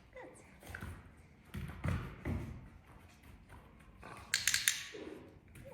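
A young puppy at a food bowl: scattered soft taps and knocks, with a quick run of sharp clicks about four and a half seconds in.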